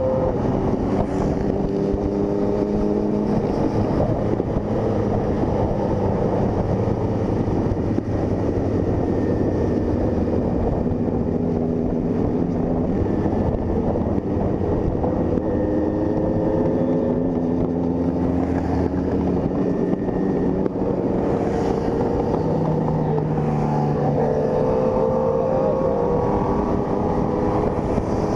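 Honda CG 160 Fan's single-cylinder engine running on the road at cruising speed, its pitch drifting slowly up and down with the throttle and dropping briefly about two-thirds of the way through.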